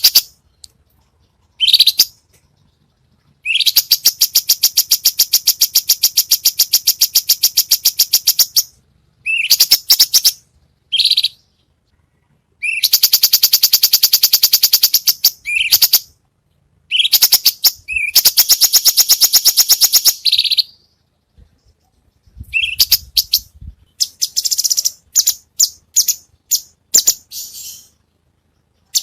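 A songbird singing loud, high, rapid trills in bursts of a few seconds, with short chirps and pauses between. It is a masteran tutor song, recorded for cage birds to copy.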